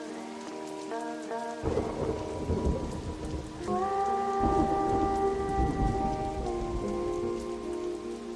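Steady rain with two long rolls of thunder, the first starting about a second and a half in and the second around the middle, under sustained musical chords.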